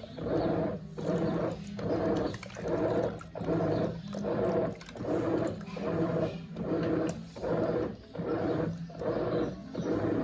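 Brastemp Eggo 1 kg mini washing machine in its wash cycle: a steady motor hum with water churning in even pulses, a little more than one a second, as the agitator swings back and forth.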